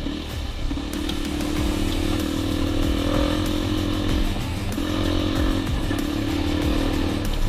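Dirt bike engine running steadily under way, its note holding in long stretches with brief dips in between.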